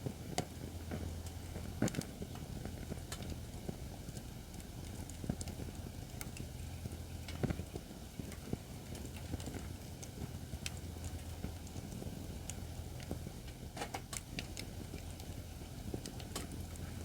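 Acacia firewood burning in a fire pit, crackling with irregular sharp pops, a few louder than the rest, over a low steady rumble.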